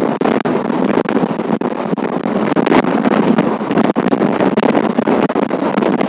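Express passenger train running at speed, a loud steady rush of wheel and rail noise mixed with wind buffeting the microphone.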